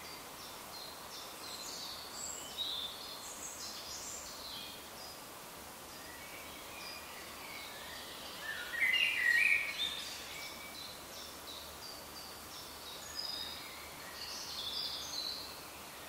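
Woodland birds calling and singing in short chirps and trills over a steady background hiss, with the loudest burst of calls a little past halfway.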